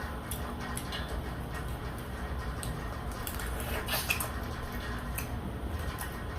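Close-miked eating sounds from a seafood boil: scattered small clicks and smacks of chewing and handling food, with a louder cluster of clicks about four seconds in, over the steady low hum of a room heater.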